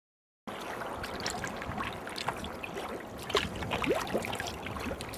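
Sea kayak paddle strokes in calm water: the blades dipping and splashing, water dripping and trickling off them. The sound starts suddenly about half a second in, after silence.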